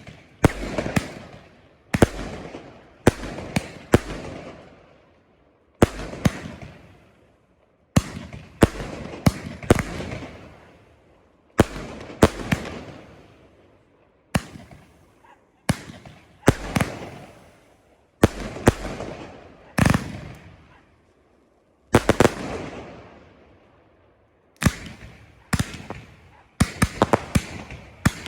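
Fireworks display, shells bursting one after another with sharp bangs every second or two, each bang trailing away over a second or two. Near the end the bangs come in a rapid cluster.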